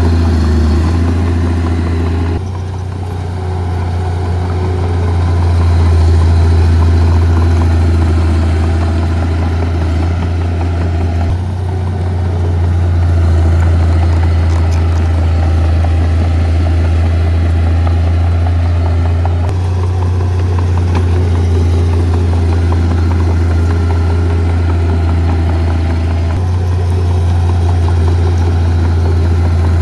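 Heavy diesel earthmoving machinery running: a steady, deep engine drone that changes abruptly in tone and loudness several times.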